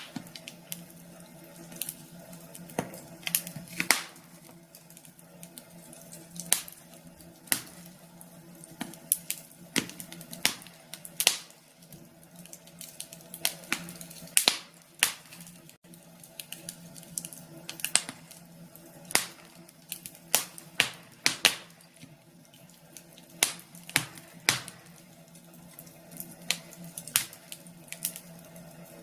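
Wood fire crackling as logs burn in a fireplace: irregular sharp pops and snaps, some in quick clusters, over a faint steady hum.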